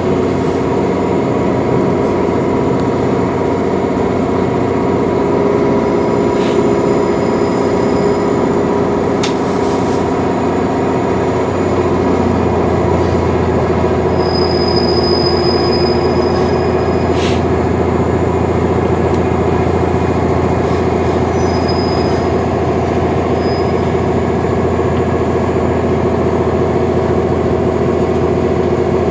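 Inside a 485-series electric train car: steady running noise and humming as the train slows into a station platform and stops. A deeper hum grows louder about twelve seconds in, and there is a brief high squeal a couple of seconds later.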